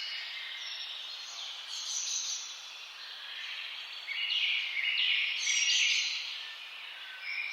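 Many birds chirping and singing over one another in a dense chorus, growing louder from about four seconds in, over a faint steady hiss.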